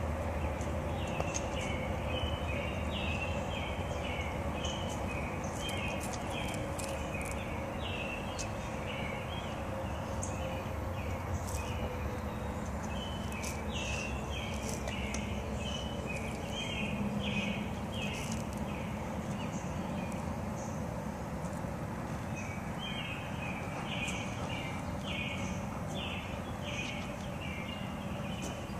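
Outdoor ambience: a small bird chirps over and over in short runs of a few chirps a second, with pauses, over a steady low background hum and occasional faint clicks.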